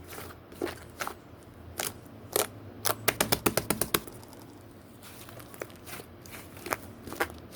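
Slime being mixed and squeezed by hand, giving sharp sticky clicks and pops: scattered single clicks, with a quick run of about eight clicks around three seconds in.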